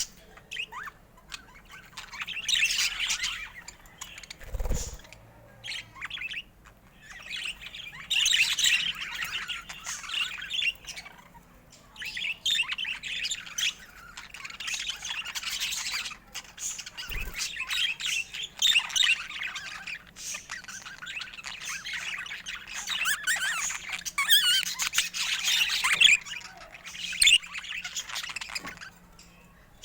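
Budgerigars chattering and warbling in rapid bouts of high chirps and squawks, with short pauses between bouts.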